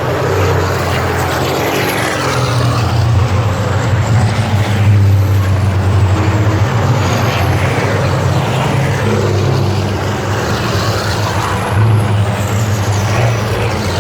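Diesel engines of Fórmula Truck racing trucks running on the circuit: a loud, continuous low drone, with high whines sliding up and down as the trucks go by.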